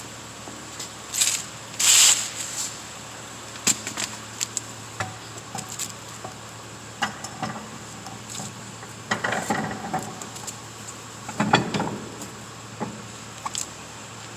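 A car wheel being fitted back onto its hub by hand: irregular metallic clicks and clinks of lug nuts and tools, with a few louder scuffs and scrapes near the start and again around two-thirds through.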